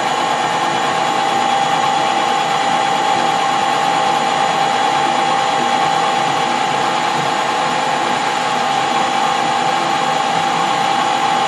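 Metal-turning lathe running steadily with a constant gear whine, taking a cut on a steel workpiece.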